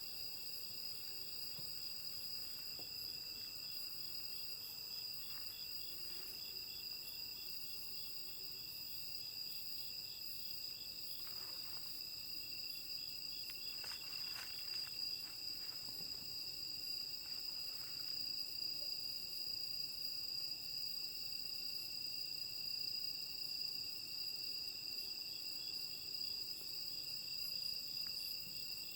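Autumn night chorus of crickets and other insects: several steady trills at different pitches, with a regularly repeating chirp over them.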